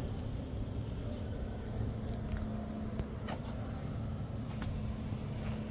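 A car engine running steadily at idle: a low rumble with a steady hum, with a few light clicks and taps over it.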